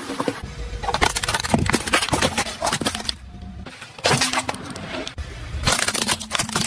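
Crunching and cracking as a car tyre rolls over and crushes brittle objects, heard in three short stretches with abrupt cuts between them.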